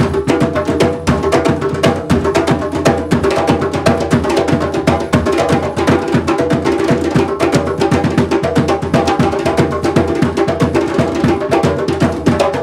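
Percussion music: drums playing a fast, dense rhythm without pause.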